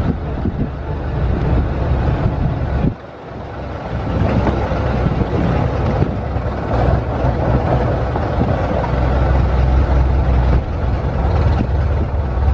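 A 1924 Dodge Brothers tourer's four-cylinder engine running steadily while the car is under way, heard on board. The sound dips briefly about three seconds in.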